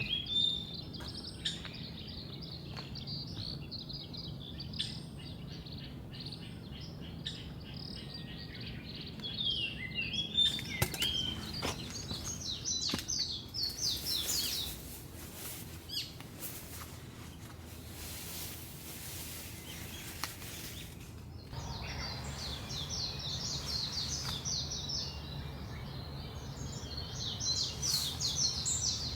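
Birds chirping in quick, repeated short notes, with a stretch of scattered sharp clicks and knocks in the middle.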